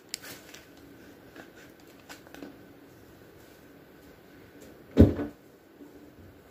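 A single dull thump about five seconds in, something in the kitchen being shut, with a few faint clicks of handling before it.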